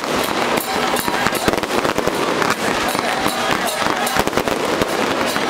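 Firecrackers going off in a dense, continuous string, many loud cracks a second without a break.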